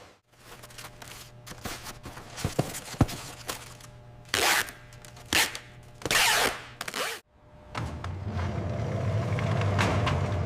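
Factory sounds: scattered clicks and knocks, then three short hissing bursts a second or so apart, then a steady low machine hum for the last few seconds.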